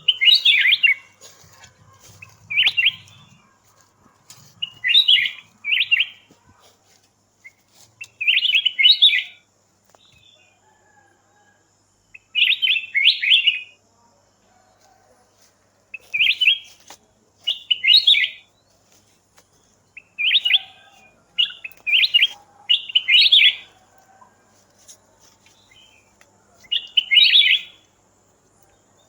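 A songbird calling in short bursts of quick, high chirps, each under a second long, repeated irregularly every one to three seconds.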